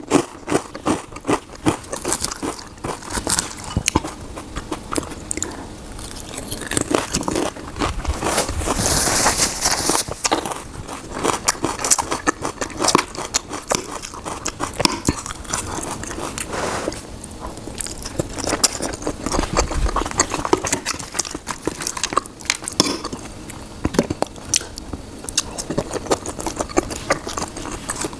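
Close-miked eating sounds: a person chewing and biting food, with many small wet clicks and smacks. A brief hiss comes about nine seconds in.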